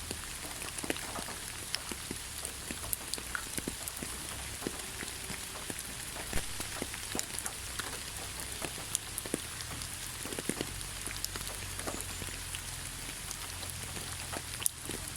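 Steady rain falling in a pine forest, a constant hiss with many individual drops pattering and ticking close by.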